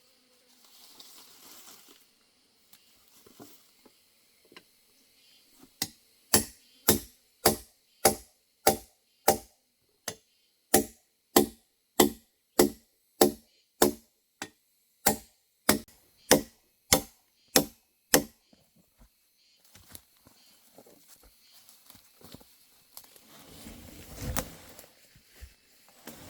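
About twenty regular chopping strikes on wood, roughly two a second, with a short pause partway through. Near the end there is a duller thump.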